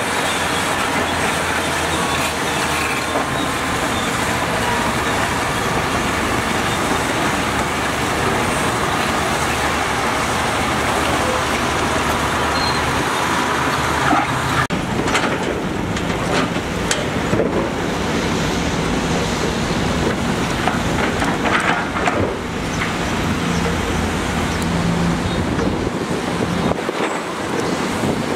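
Heavy diesel construction machinery running steadily. About halfway through the sound changes abruptly, and scattered clanks and knocks follow.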